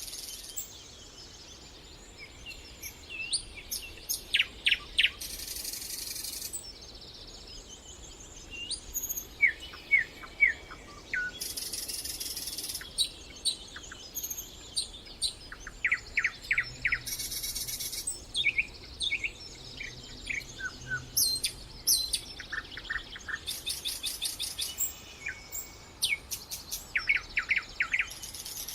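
Several songbirds singing and calling together, with short chirps and quick trills of repeated notes. High, thin buzzing phrases recur every few seconds.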